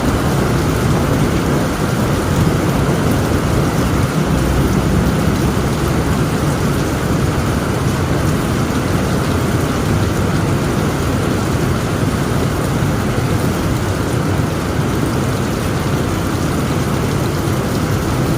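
Heavy rain falling steadily on a tin roof, under a continuous low rumble of thunder.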